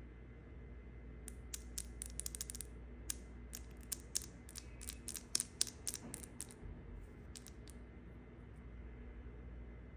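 Knife cutting through dry soap: a quick, irregular run of crisp crackling clicks lasting about five seconds, then stopping, over a faint steady hum.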